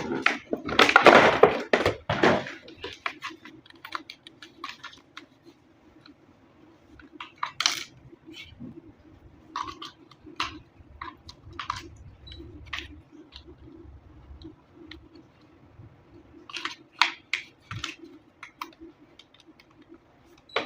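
Packaging and a plastic toy being handled: a burst of rustling in the first couple of seconds, then scattered sharp clicks and taps, with a faint steady hum underneath.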